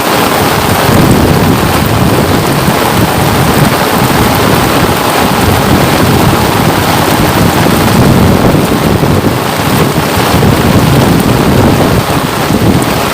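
Steady, loud rain falling, an even hiss and patter with no breaks.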